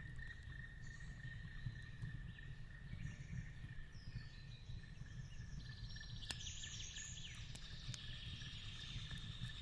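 Fireplace and forest ambience: a fire crackling with scattered sharp pops over a steady low rumble, a steady high tone, and a run of bird chirps and a rapid trill starting a little past halfway.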